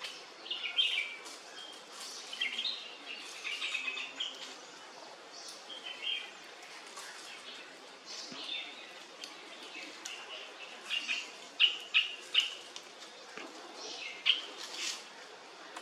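Small birds chirping in short, scattered bursts, with a few sharper, louder chirps about two-thirds of the way in.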